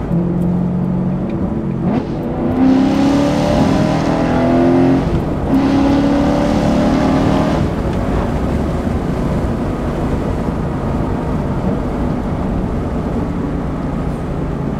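BMW E92 M3 V8 running through a titanium exhaust, heard inside the cabin: the engine note rises as the car accelerates, breaks for a gear change about five and a half seconds in, rises again, then settles into steady cruising with road noise for the second half.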